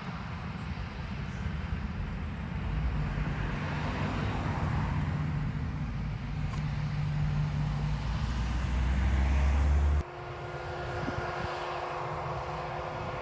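Heavy farm machinery running: a low engine rumble that grows steadily louder as it comes closer. It cuts off suddenly about ten seconds in and gives way to a different steady engine drone with a higher whine in it.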